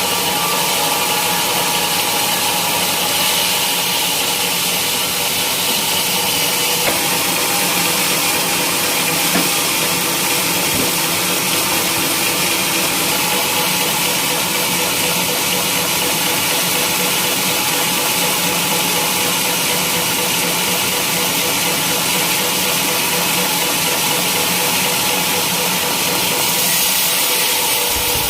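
Sawmill machinery running steadily while teak logs are being sawn, a continuous loud drone with a few held tones and no distinct knocks.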